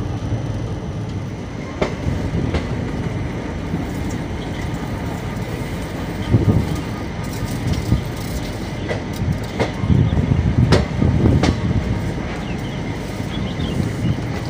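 Passenger train coaches running along the track at speed, a steady rumble with several sharp clacks of the wheels over the rails. The clatter grows louder and busier about ten seconds in.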